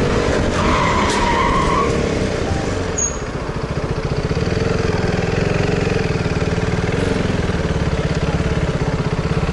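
Loud, steady vehicle noise of a car in motion, with a deep engine and road rumble. A brief higher tone sounds for about a second and a half, starting about half a second in.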